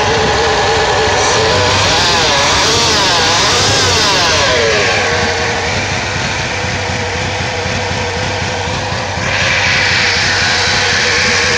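Chevrolet Monte Carlo engine running on a cold start, revved up and down a few times in the first half, then easing off and picking up again near the end; the revving is meant to clear a little whining noise.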